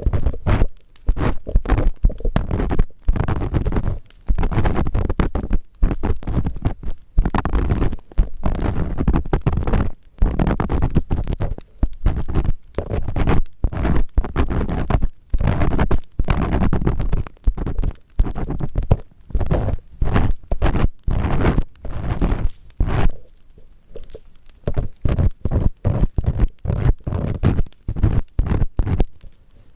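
Earpick scraping firmly inside the ear of a 3Dio binaural microphone: many quick rubbing, scratching strokes with short gaps between them, close and loud.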